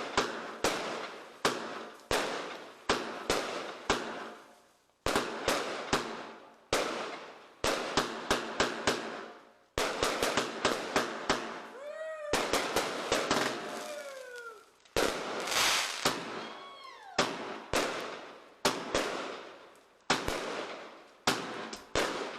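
Consumer fireworks going off in quick succession: sharp bangs one after another, each with a fading rumble. In the middle stretch, whistles glide up and down in pitch among the bangs.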